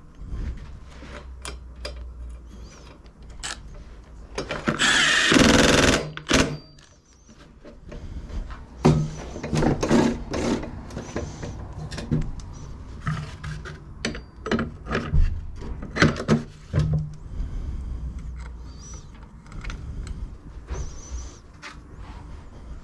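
Tools and metal parts clinking and knocking while a lawnmower's self-propel drive is worked on, with a loud rushing burst lasting about a second, about five seconds in.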